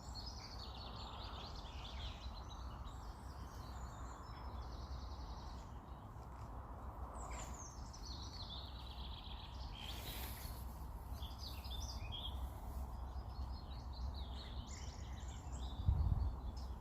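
Small songbirds singing in a series of high, quick phrases, one a falling trill, over a steady low outdoor rumble, with a low thump near the end.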